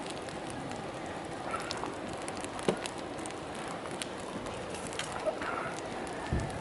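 Wood campfire crackling, with scattered sharp pops, the loudest about two and a half seconds in, over a steady rush of flowing river water.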